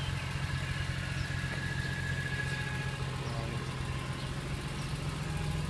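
2002 BMW M3's S54 straight-six idling steadily, not yet warmed up, with no rattle or ticking to be heard.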